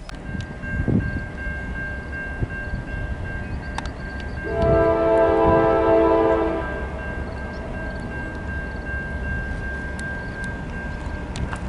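Diesel locomotive horn sounding one chord blast of about two seconds, starting about four and a half seconds in, over the steady rumble of a train.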